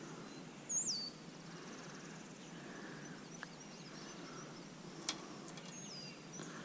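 A bird's short whistled call that falls in pitch, heard twice: about a second in and again near the end. Faint background noise runs under it, with one sharp click a little past halfway.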